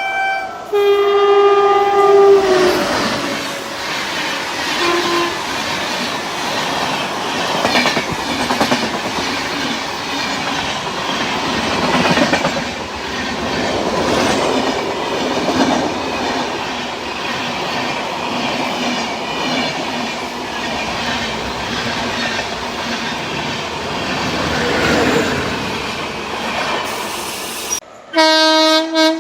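Passing train's horn sounding a multi-note chord that drops in pitch about two seconds in as the locomotive goes by. Then a long, loud clickety-clack of wheels over rail joints as the coaches run through, and another horn blast near the end.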